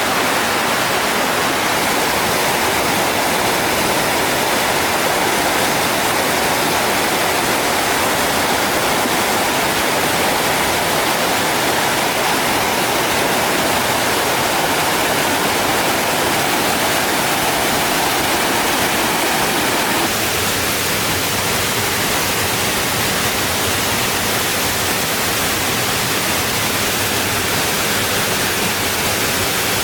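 Steady rush of running water, as from a stream or small waterfall. About two-thirds of the way through its tone changes suddenly to a duller, lower rush.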